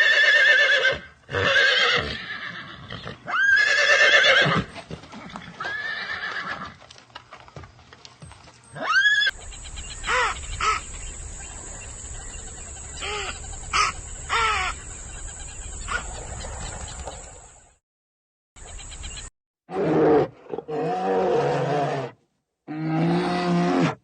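A run of separate animal calls. It opens with several horse whinnies over the first few seconds, pitched high and bending in pitch. Then come higher calls that glide upward over a steady hiss, and near the end a few deeper, repeated calls.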